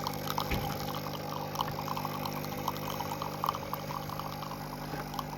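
Nespresso capsule machine brewing: its pump hums steadily while coffee streams into the cup, with a fine crackle of pouring liquid.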